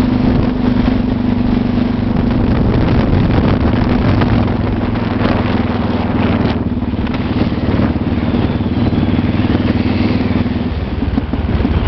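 Motorcycle engine running steadily under way on a dirt road, with a continuous noisy rush over it; the engine note changes near the end.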